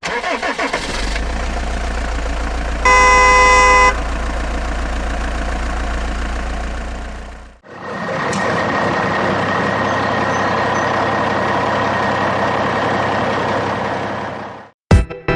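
Heavy construction-vehicle engine running with a deep rumble. About three seconds in, a horn honks once for about a second. After a brief break, a second steady machine engine sound runs until shortly before the end.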